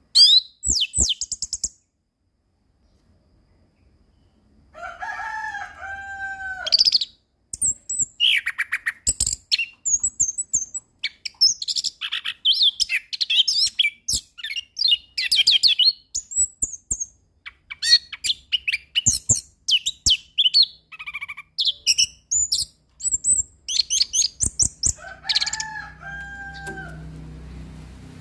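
Chestnut-capped thrush (anis kembang) singing a long, rich run of rapid, varied high-pitched phrases and trills, with a brief silence about two seconds in. Twice, a lower two-note whistle stands out from the high phrases.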